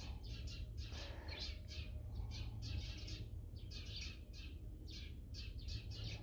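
Small birds chirping in quick short repeated chirps, about three a second, over a steady low hum.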